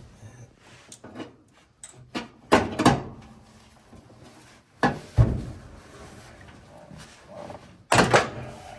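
Knocks and clunks of tools and parts being handled during work on a car, with louder clusters about two and a half, five and eight seconds in.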